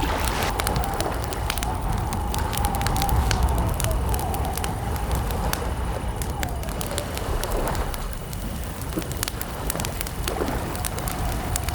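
Wood campfire crackling with many sharp pops over a low, steady rumble. A faint wavering tone rises and falls behind it, dropping out around the middle and returning near the end.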